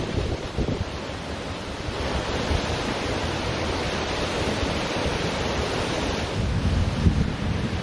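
Ocean waves washing onto a beach, one wash swelling about two seconds in and fading after about six, with wind buffeting the microphone as a low gusty rumble that picks up near the end.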